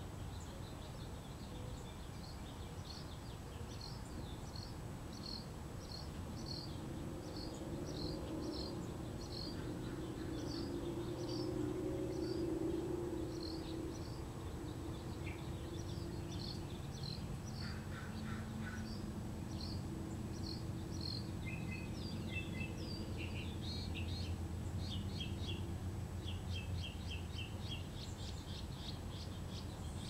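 Birds chirping over a steady low background rumble. One bird repeats a short, high chirp about twice a second, and near the end several varied chirps and quick trills join in.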